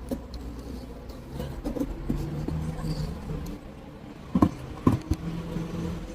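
Two sharp knocks about half a second apart, over a low steady hum.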